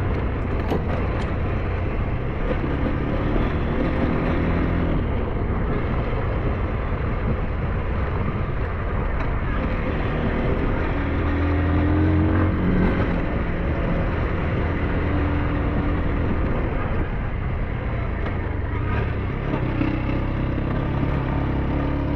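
SYM NH T 200 engine running steadily while riding, under a constant rush of wind and road noise; the engine note firms up and wavers a little around the middle.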